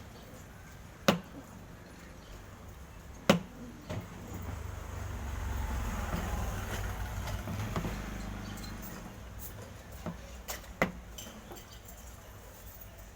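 Sharp knocks and clicks of tools against the washing machine's housing while its drain is being taken apart, three loud ones spaced a few seconds apart. A low rumble swells up through the middle and fades away.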